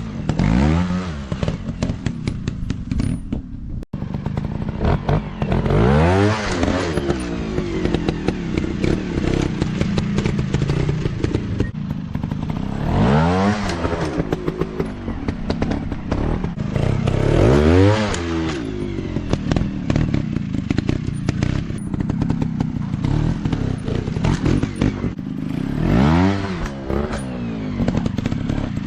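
Off-road dirt bike engines running under load, revved hard again and again, the pitch rising and falling in repeated blips over a steady rattling clatter. A brief dropout comes about four seconds in.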